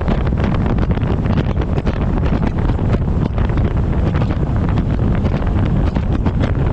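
Heavy wind buffeting a camera microphone strapped to the front of a moving truck: a steady, loud rumbling roar with a fast flutter.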